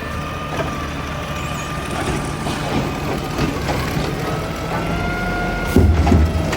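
Mack LEU garbage truck running at the curb while packing: a steady diesel drone with a thin whine over it that rises a little near the end, and one heavy clunk about six seconds in.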